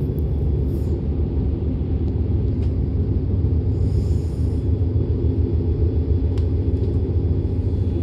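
DB class 425 electric multiple unit running, heard from inside the passenger car: a steady low rumble of wheels on rail and running gear, with a brief faint high-pitched sound about halfway through.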